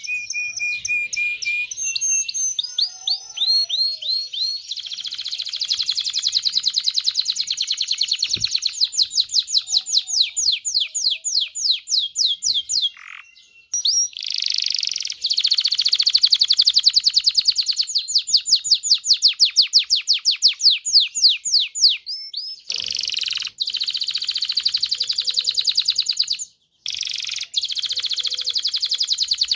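Domestic canary singing: long phrases of fast trills, each made of rapidly repeated high notes, broken by brief pauses.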